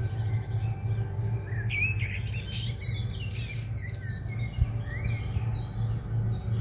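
Wild birds singing: scattered short chirps and whistled notes, some sliding up or down in pitch, over a steady low hum.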